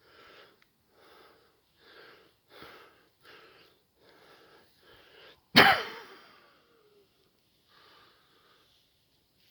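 A person sneezing loudly once, about halfway through, the sound dying away over about a second. Before it comes a run of short rustling sounds, about one and a half a second.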